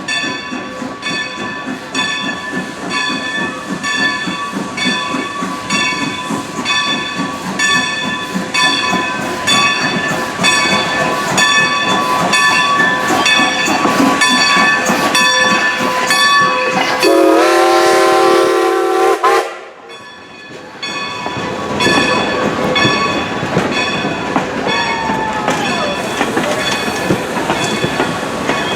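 Steam locomotive No. 90, a 2-10-0, ringing its bell at about two strokes a second over the rumble of the moving train. About two-thirds of the way through it sounds one steam whistle blast of about two and a half seconds, which cuts off sharply.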